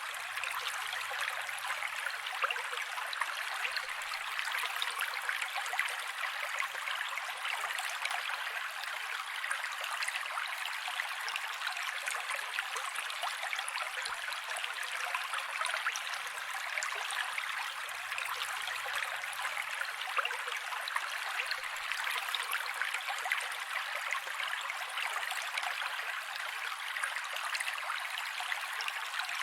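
Mountain creek running steadily: a constant, even rush of flowing water, bright and without deep rumble.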